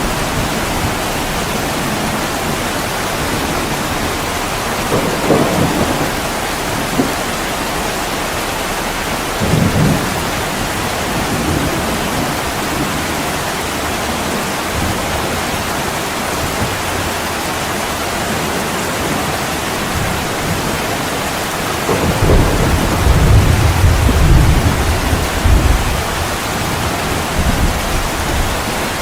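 Heavy rain pouring steadily on a window, with low thunder rumbles: two short ones in the first ten seconds, and near the end a longer, louder roll lasting several seconds.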